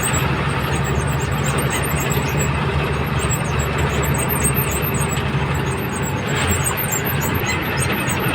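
Truck engine running steadily under way on the highway, a constant low drone with road noise.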